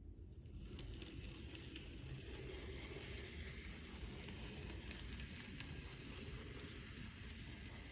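Z scale model train running on its track: a faint, steady crackling hiss from the tiny motor and wheels, with small clicks scattered through it. It starts about half a second in.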